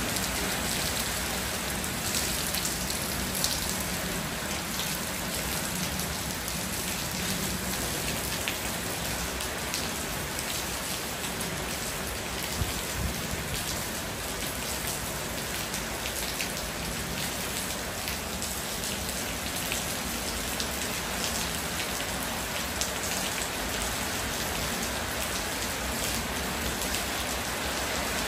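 Steady rain falling, with many separate drops ticking through a continuous hiss.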